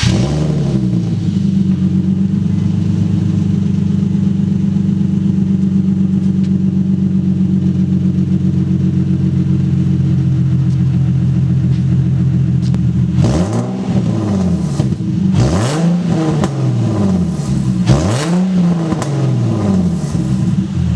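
Infiniti G37's 3.7-litre V6 idling steadily just after start-up, then revved three times, each rev rising and falling back to idle. It runs through test pipes, with the rear mufflers hanging on a single bolt and left gapped at the joint, so the exhaust is effectively muffler-less.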